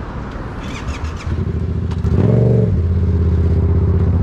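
Motorcycle engine rising in pitch and loudness about two seconds in, then easing back to a steady drone, after a rushing noise at the start.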